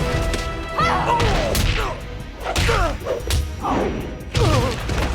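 Cartoon fight sound effects: punches and blows landing about once a second, with short falling grunts or cries and an orchestral score playing underneath.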